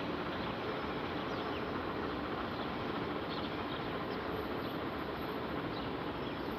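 Deutsche Bahn ICE electric train pulling away along the platform, a steady rolling rumble with a few faint high squeaks over it.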